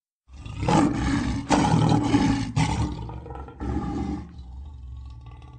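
Lion roaring: a run of deep, loud roars through the first three seconds, a shorter roar about four seconds in, then a quieter trailing growl.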